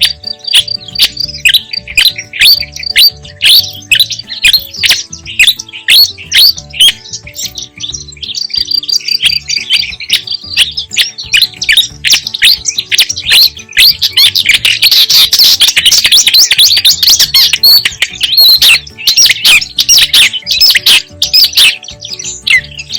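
Marsh warbler singing: a fast, unbroken run of varied chattering, trilling and twittering notes, thickest about two-thirds of the way through.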